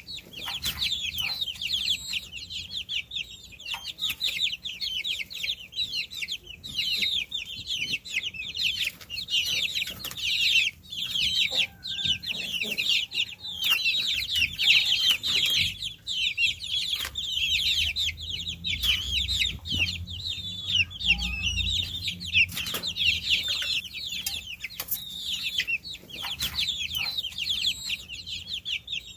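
Baby chicks peeping in a continuous, dense chorus of high, short, falling chirps. A low rumble sits underneath for a few seconds after the middle.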